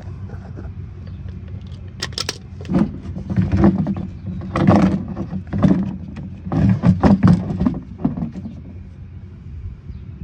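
A 17 mm socket wrench working the oil drain plug loose on the oil pan: several short bursts of metallic clicking and rattling over a steady low hum.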